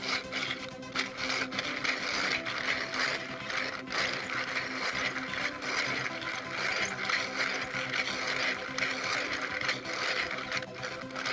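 3D-printed plastic eight-cylinder radial engine model being turned by hand, its pistons, rods and hub giving a dense, continuous clicking rattle.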